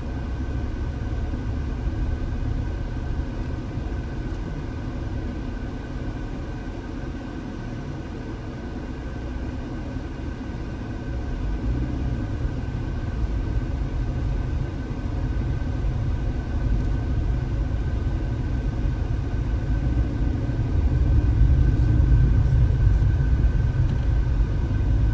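Car driving on a mountain road: a steady low rumble of engine and tyres that grows louder toward the end.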